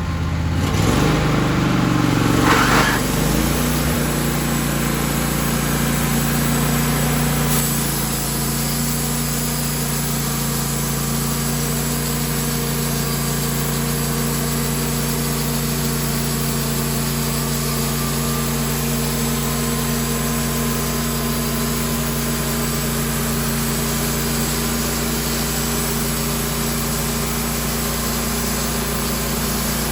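Sawmill engine revving up over the first couple of seconds, then running at a steady speed. About seven and a half seconds in it settles to a slightly lower, steady level.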